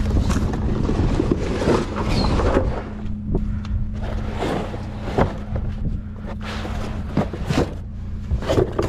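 Pickup truck engine running with a steady low hum, under scattered knocks and clatters.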